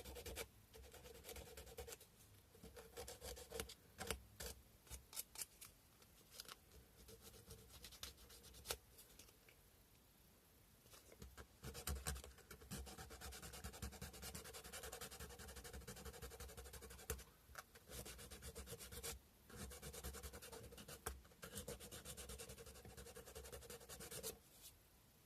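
Sandpaper rubbed by hand over a carved cow-bone fish hook: faint, rapid scratchy strokes in runs of several seconds with short pauses between, and a few sharp clicks.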